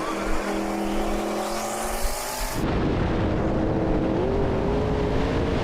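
Twin-turbo Ford Mustang V8s in a street race. Steady engine tones at first; about two and a half seconds in, a loud rushing noise comes in and the engine pitch climbs slowly as the cars accelerate.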